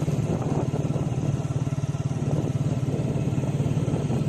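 Honda motorcycle engine running steadily with a rapid, even putter as the bike rides along, heard from the saddle.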